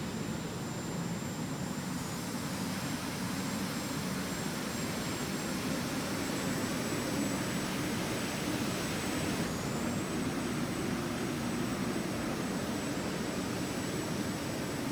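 Jet airliner in flight: steady rushing noise of the engines and airflow, with a faint steady high whine.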